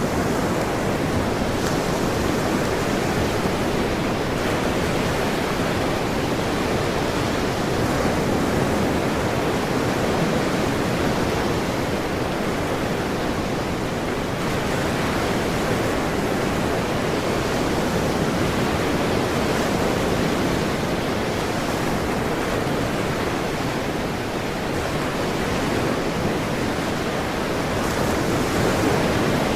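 Ocean waves washing in a steady, continuous rush with gentle swells in loudness.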